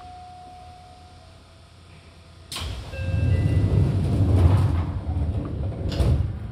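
Train running sound heard from inside a limited express car: a low steady run, then about two and a half seconds in a sudden loud rushing rumble with brief squealing tones. It ends with a bang and drops back to quiet near the end.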